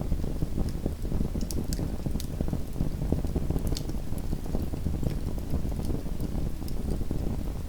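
Small wood fire burning in a fireplace: a steady low rumble of flames with a dense run of soft crackles and a few sharp, high pops of burning wood.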